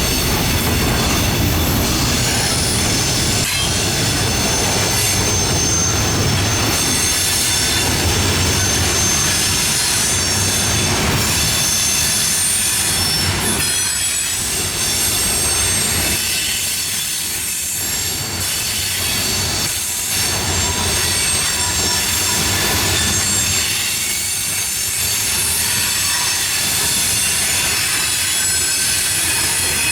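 Train cars rolling past, with steady high-pitched wheel squeal and a constant rumble, broken by a few short clanks from the wheels.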